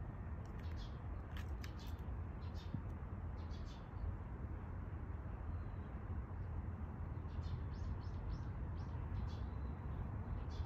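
Small birds chirping in short, high calls, a few near the start and a quick run of about five a little past the middle, over a steady low outdoor rumble.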